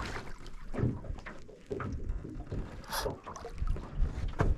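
Irregular small knocks, clicks and rustling noise in a small fishing boat while a lively pike is being reeled in alongside, with one sharper click about three seconds in.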